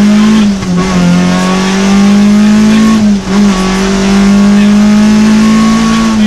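Rally car engine heard from inside the cockpit, running hard at high revs. It eases briefly twice, about half a second and three seconds in, before pulling again.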